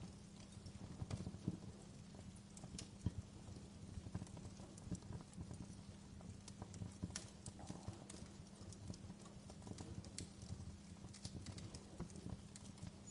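Wood fire crackling in a fireplace: irregular sharp pops and snaps of varying strength over a low, steady rumble.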